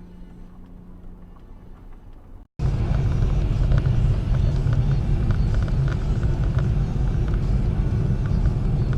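Car on the move heard from inside, steady low road-and-engine rumble as picked up by a dashcam microphone. About two and a half seconds in, a quieter stretch with a steady low hum cuts off abruptly and the loud rumble starts.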